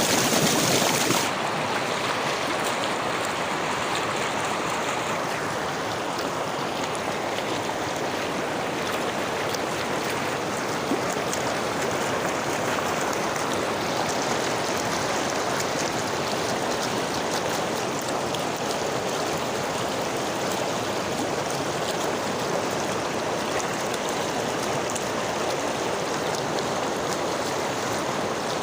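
Steady rush of flowing river water, an even, continuous noise. A brighter, slightly louder hiss drops away about a second in.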